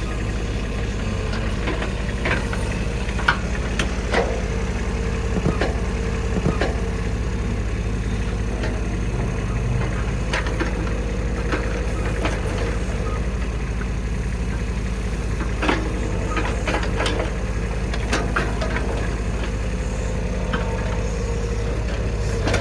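Farm machine engine idling steadily, with short clicks and knocks now and then.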